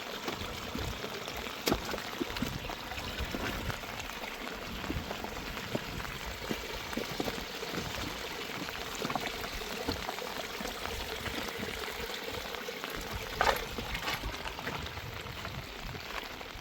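Water running and splashing steadily, with two sharp knocks, one near the start and one near the end.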